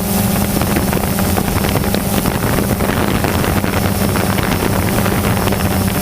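DJI Phantom 2 quadcopter's electric motors and propellers hovering with a steady high hum, with wind rushing over the microphone.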